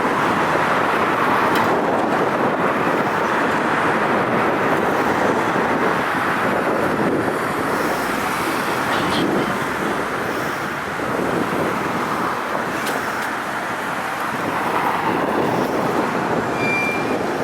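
Steady city street traffic noise, with a few faint clicks and a short high beep near the end.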